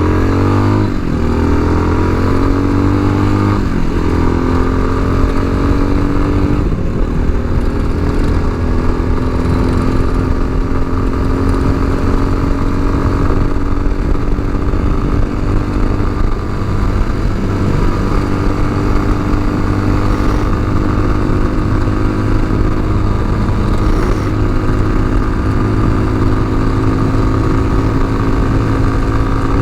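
Tao Tao TBR7 250 cc single-cylinder motorcycle engine pulling away, its pitch climbing over the first few seconds, then running fairly steadily under way.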